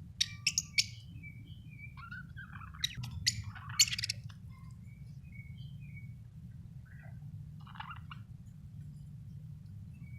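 Budgerigar chirping: loud sharp chirps in the first second and again around three to four seconds in, then softer scattered chirps and chatter, over a steady low hum.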